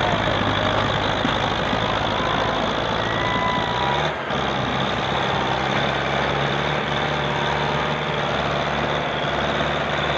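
Diesel farm tractor engines running hard under load in a pulling contest, a dense steady drone whose pitch steps up slightly about four seconds in.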